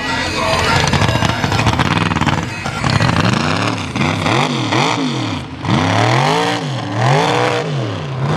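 Mega mud truck's engine run hard under heavy rushing noise for the first few seconds, then revved up and down over and over, its pitch swinging about once a second.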